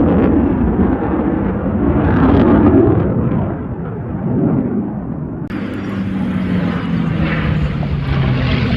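Aircraft flying past with a loud engine rumble. About halfway through, the sound changes abruptly to a steady engine drone that slowly falls in pitch as the plane passes.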